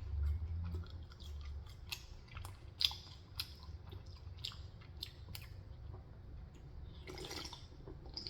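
A person chewing food close to the microphone, with soft wet clicks and smacks of the mouth at irregular intervals.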